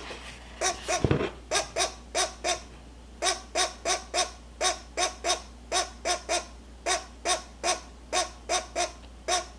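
Nestling pileated woodpecker calling: short calls repeated about three a second in runs of three to five. A brief low thump about a second in.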